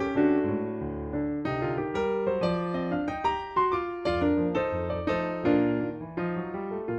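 Background piano music: a gentle melody of struck notes over low chords.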